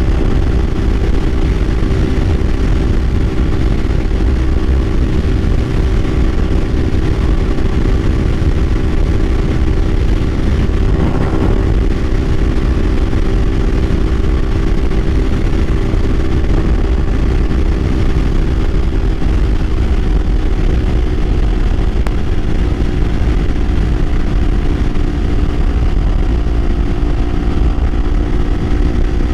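Kawasaki Ninja 500's parallel-twin engine running steadily at road speed, with heavy wind rumble over the microphone; the engine note rises slightly near the end.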